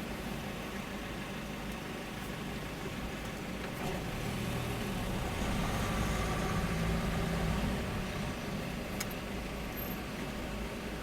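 Car engine and road noise running steadily, swelling louder for a few seconds in the middle, with a short click about nine seconds in.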